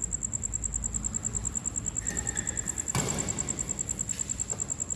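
Insects chirring steadily in a fast, even pulse, with a single sharp knock about three seconds in.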